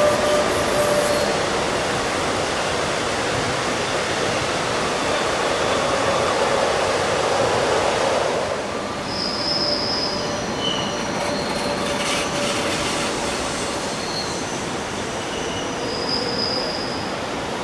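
Rhaetian Railway passenger coaches rolling over a stone viaduct, their wheels squealing with a steady tone over the rumble; the sound drops away about eight or nine seconds in. After that a quieter train rumble goes on, with a few short high squeals.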